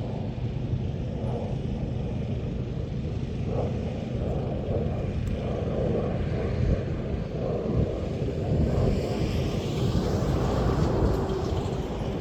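Steady low engine rumble, with a broader rushing sound that swells about eight seconds in and eases off near the end.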